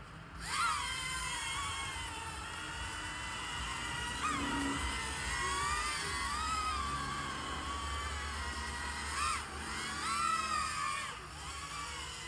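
Small electric motors of a remote-control toy flying jet spinning up for takeoff, a high whine that starts about half a second in and keeps rising and falling in pitch as the throttle changes.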